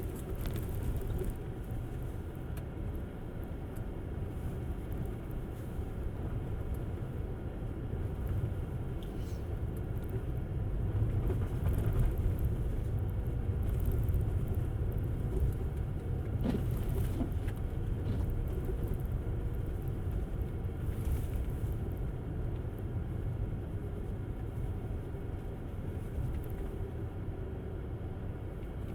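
Steady low tyre and road rumble of a Tesla Model S driving on snowy roads, with a few faint brief clicks and hisses.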